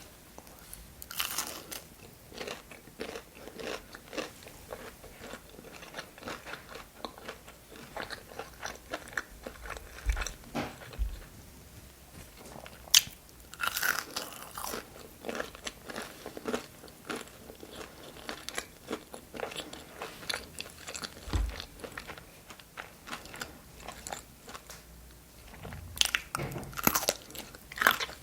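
Close-miked eating: crunchy food being bitten and chewed, with wet mouth clicks throughout. There are three louder crunching bites, about a second in, around the middle and near the end, with steady chewing between them.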